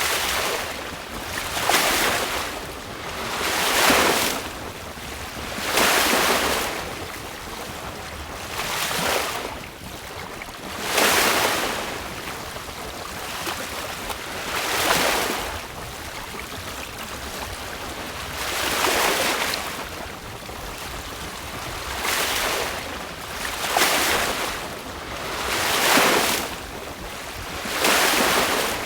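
Choppy sea washing and rushing past a sailboat's hull as it sails, in swells that rise and fall every two to four seconds, with wind noise underneath.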